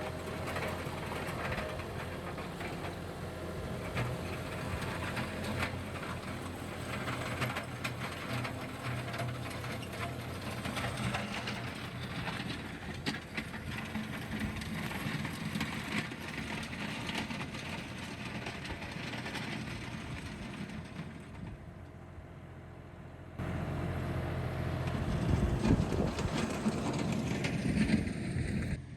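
John Deere tractor engine running steadily while its box blade scrapes loose gravel, with a dense clattering rattle over the engine hum. About 23 seconds in the sound changes abruptly to a louder, deeper engine note.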